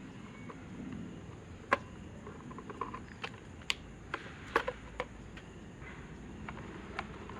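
Scattered sharp clicks and taps of tools and electric fan parts being handled, about eight in all, the loudest a little under two seconds in.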